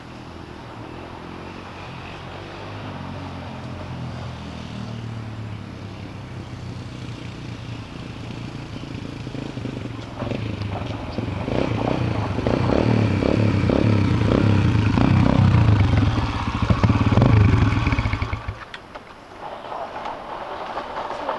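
Dirt bike engine running at a steady pitch, growing louder over several seconds as the bike comes close under power, then the sound drops away sharply near the end.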